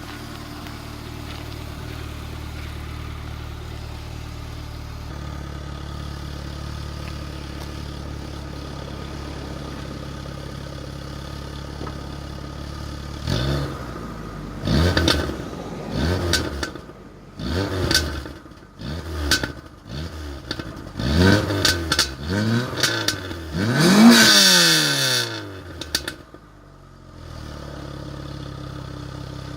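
Nissan SR20 inline-four engine in a 1989 Nissan Sunny idling steadily, then revved in a series of quick throttle blips, each rising and falling in pitch. The biggest rev comes near the end, and then the engine settles back to idle.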